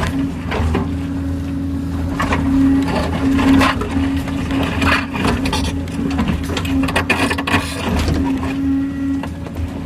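Kobelco hydraulic excavator's diesel engine running steadily with a wavering hydraulic whine, overlaid with repeated knocks and scrapes of the machine working.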